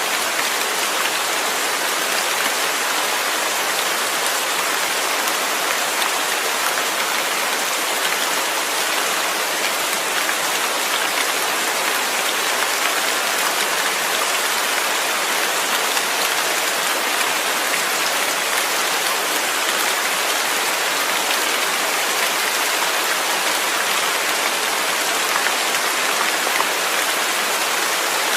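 Steady, even rain falling, a dense hiss of raindrops without change or separate events.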